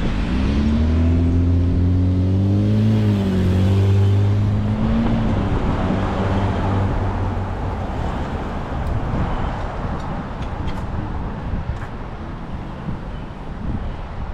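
A motor vehicle's engine running close by, its pitch rising and dipping over the first five seconds before it fades, over a steady rush of road and wind noise.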